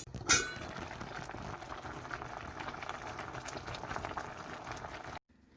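Pot of vegetables for detox juice boiling hard, a dense bubbling crackle, with a sharp click just at the start.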